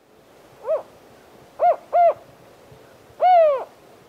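Mexican spotted owl singing its four-note hooting song: a short hoot, a quick pair of hoots, then a longer hoot that falls away at the end, over the faint steady hiss of a field recording.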